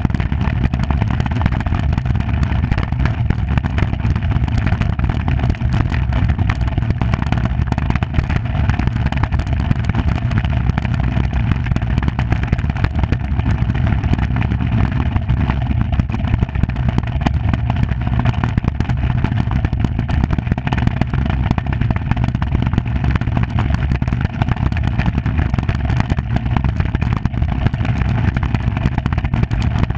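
Steady loud rumble of a Skimmer 45 iceboat underway, its runners grinding and chattering over the ice, with wind buffeting the microphone.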